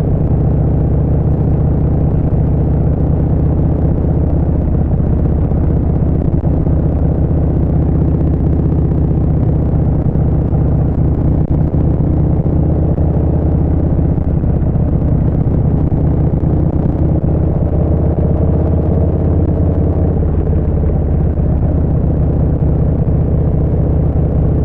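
Harley-Davidson Street Bob 114's Milwaukee-Eight V-twin running steadily through a Vance & Hines Short Shots full exhaust system, a deep, even exhaust note that holds at much the same pitch and level throughout.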